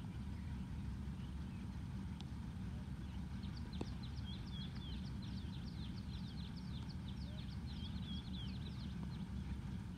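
A small bird singing a rapid series of short, high, falling notes for several seconds, over a steady low rumble. A single sharp click comes just as the song begins.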